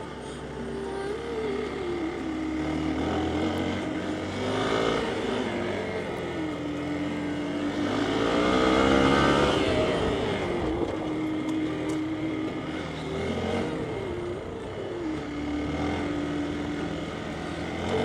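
Hero XPulse 200's single-cylinder engine running on a ride, its pitch rising and falling again and again as the throttle is opened and closed, loudest in a long rev-up around the middle.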